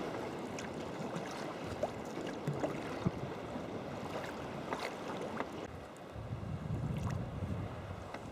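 Sea kayak paddling: paddle blades dipping and water splashing and dripping, with scattered small splashes over a steady wash of water along the hull. A low rumble of wind on the microphone swells up near the end.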